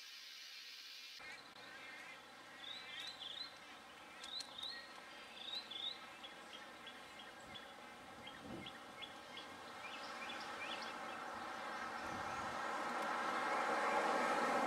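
Bird calls: quick clusters of short rising chirps, then a run of brief ticking notes. From about ten seconds in, a steady rushing noise swells and becomes the loudest sound near the end.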